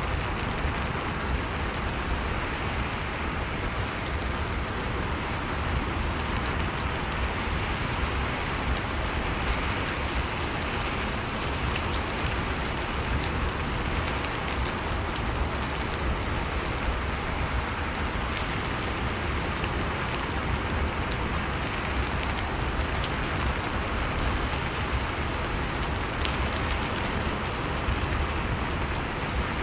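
Steady rain falling, an even hiss with small scattered drop ticks and a low rumble underneath.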